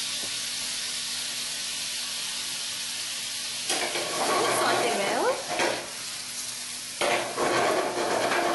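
Shrimp and sliced garlic sizzling steadily in a frying pan with oil and a little stock. A bit under four seconds in, a spatula starts stirring and scraping the shrimp around the pan, loud for about two seconds, then again from about seven seconds in.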